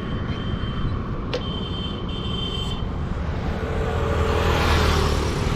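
Road traffic and engine noise, a steady low rumble with a vehicle passing close by, swelling near the end.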